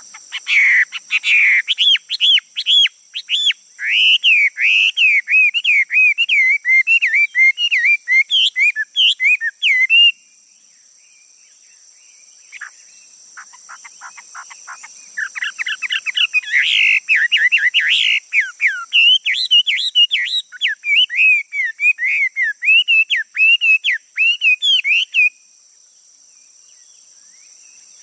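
Male songbird singing two long bouts of rapid, varied whistled phrases, with a pause of a few seconds between them.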